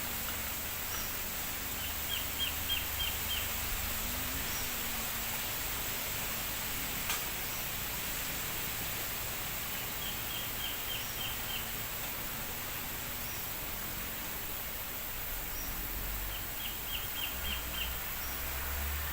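Bamboo leaves rustling steadily in the wind, an even hiss. A bird calls a quick run of about six short notes three times, roughly every seven seconds.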